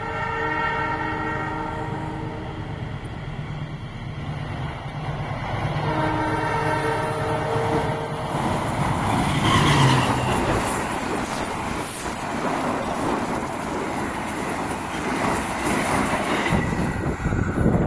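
The Malabar passenger train's locomotive horn sounds a chord twice, a couple of seconds each, then the train passes close by with a loud rumble and rail clatter that lasts to the end.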